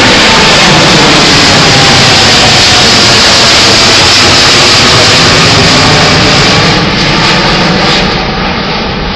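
Boeing 787-8's twin jet engines at takeoff thrust: a loud, steady rush of jet noise that starts to fade about seven seconds in as the airliner moves away.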